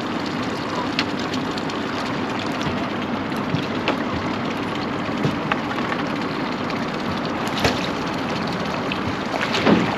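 Boat on the water: a steady hum with wash and wind noise, broken by a few sharp clicks.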